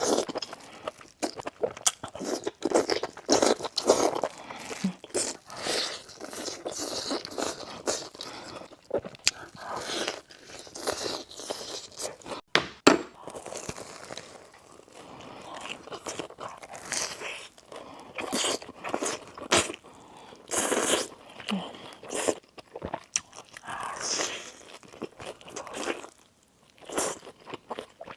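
Close-miked eating: repeated crunching bites into crisp food and chewing, in irregular bursts.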